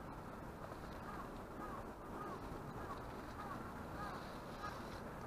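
A bird calling outside, a quick series of short chirps about twice a second, over a steady background hiss.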